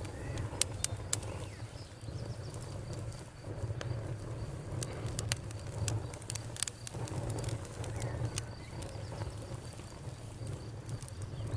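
Campfire burning with irregular sharp crackles and pops over a low steady rumble, and a faint steady high insect drone underneath.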